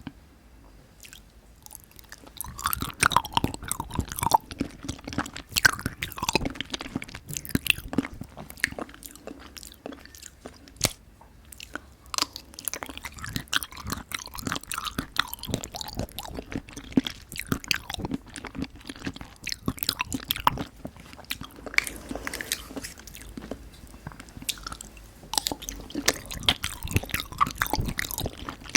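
Close-miked eating sounds of Nanaco pudding being chewed: wet, sticky mouth smacks and quick irregular clicks. They start about two seconds in and keep on without pause.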